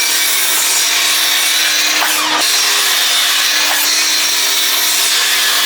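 Electric power saw cutting through a length of timber: the blade's steady noise in the wood over a constant motor hum.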